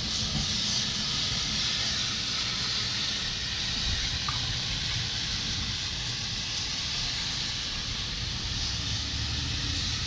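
Steady hissing rush with a low rumble underneath: wind and rain on an outdoor city webcam's microphone.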